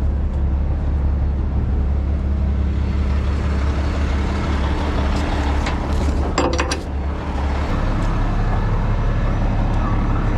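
Heavy tow truck's diesel engine idling steadily, its note stepping up about three-quarters of the way through. A short clatter is heard a little past the middle.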